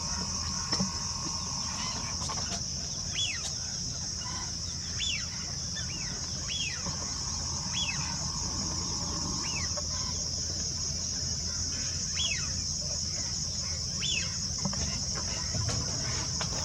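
Crickets trilling steadily in a high, unbroken chorus, while a bird gives short calls that drop in pitch, about nine of them a second or two apart.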